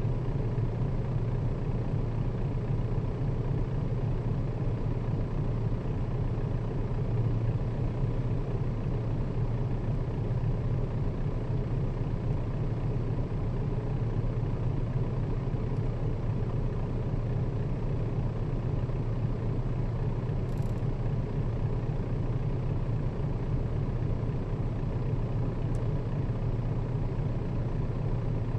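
Nissan Diesel KL-RA552RBN route bus running steadily at speed, a constant low drone of engine and road noise with no change in pitch or level.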